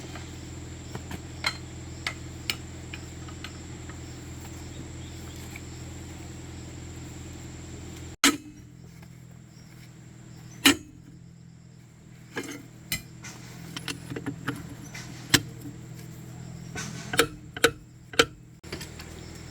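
A steady mechanical hum, like a running engine, with a few faint ticks. About eight seconds in it cuts off abruptly to quieter surroundings, where sharp knocks like tools striking metal come at irregular intervals, several close together near the end, before the hum returns abruptly.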